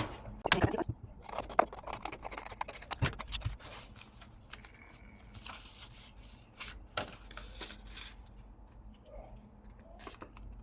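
A sheet of paper being handled, folded in half and creased flat by hand: quick rustles, crackles and short scrapes, busiest in the first few seconds and then sparser and quieter.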